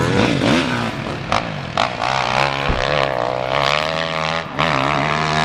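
Dirt bike engines running and revving, their pitch wavering up and down.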